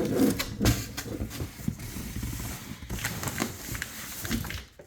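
Rustling, clicking and knocking as packaging and plastic parts are handled while an RC truck is unboxed, with many short irregular clicks.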